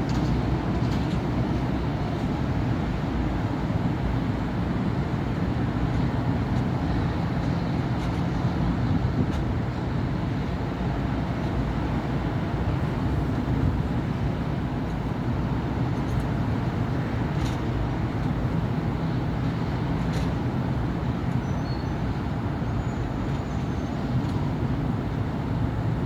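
Steady road traffic on a busy city avenue: a continuous low hum of passing vehicles' engines and tyres, with a few brief sharp clicks partway through.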